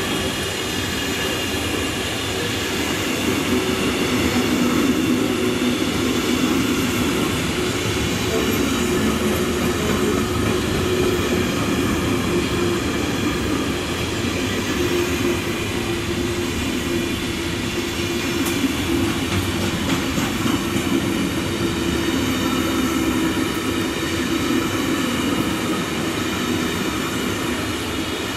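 Freight train's container and tank-container wagons rolling past: a steady rumble of steel wheels on the rails with a humming tone running through it, a little louder about five seconds in.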